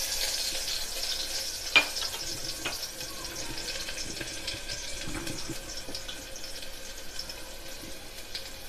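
Shallots and garlic sizzling in hot oil in an aluminium pressure cooker, a steady hiss that slowly fades, with a sharp click about two seconds in and a few fainter ticks.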